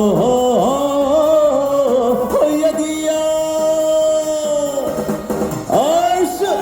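Trot song sung over a backing track: the singer holds one long steady note through the middle, then slides into another phrase near the end.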